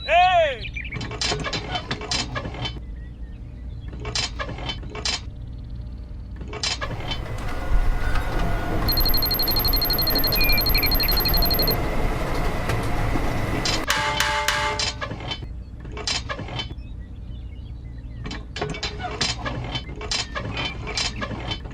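Small gear mechanism clicking in runs over a steady low motor hum, with a thin high whine for a few seconds in the middle.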